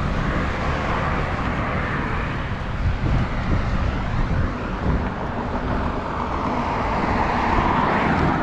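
Steady road traffic noise, with wind rumbling on the microphone of a moving rider.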